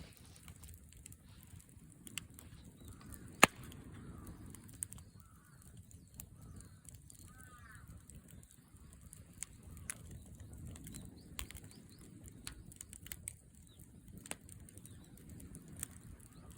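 Wood campfire crackling and popping: scattered sharp snaps, one much louder pop about three and a half seconds in, over a low rumble.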